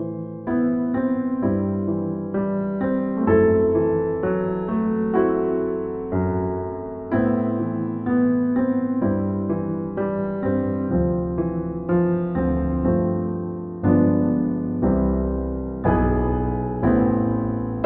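Slow, gentle solo piano music, notes struck one after another and left to ring and fade.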